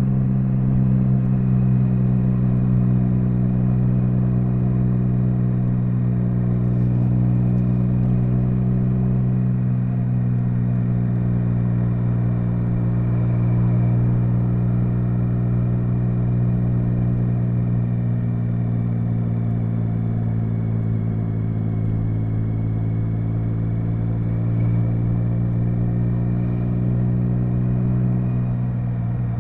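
Triumph Speed Triple 1050's inline three-cylinder engine running at a steady speed during a ride, its pitch drifting only slightly, with a small dip near the end.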